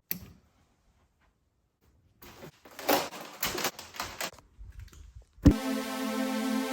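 A run of irregular clicks and clatters lasting about three seconds. Then a sharp thump, and steady electronic background music starts near the end.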